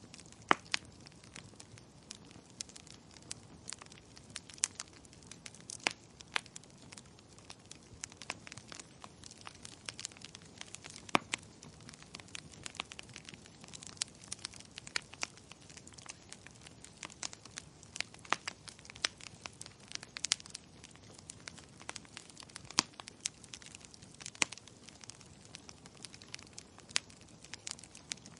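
Wood fire crackling: irregular sharp pops and snaps, a few louder ones standing out, over a soft steady hiss.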